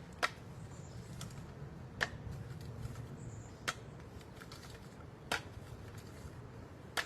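Hand inflation of a basketball: a sharp click from the pump about every second and a half, with fainter clicks between, over a steady low hum.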